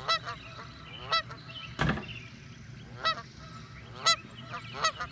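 Short honking bird calls, one roughly every second, coming closer together near the end. A single thump about two seconds in.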